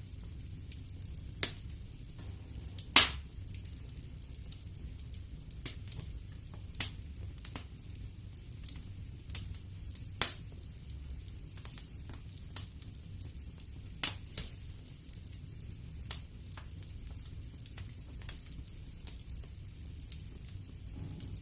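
Wood fire in a fireplace crackling, with irregular sharp pops over a low steady rumble; the loudest pops come about three seconds in and again around ten seconds.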